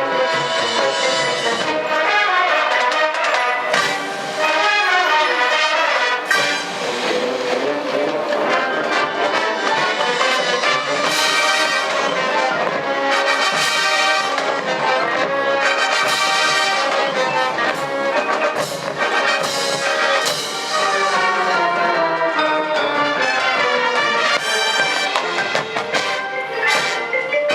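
Marching band music: the brass section playing sustained chords and melodic lines, with trumpets and trombones prominent, and mallet percussion joining near the end.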